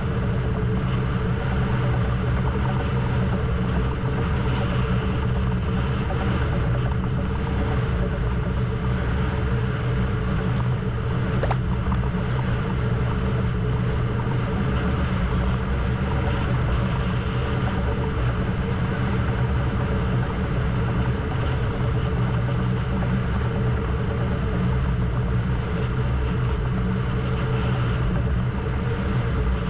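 A crew launch's engine running steadily at a constant speed, with the rush of wind and water over it. There is a single sharp click about eleven seconds in.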